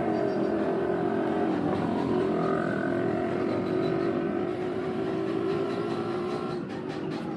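A power tool's electric motor running steadily with a constant pitch, dropping off a little near the end.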